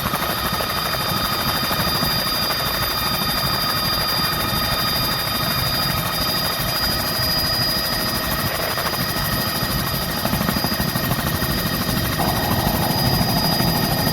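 Helicopter in flight: a steady high turbine whine over a continuous rumble from the rotors, getting a little louder near the end.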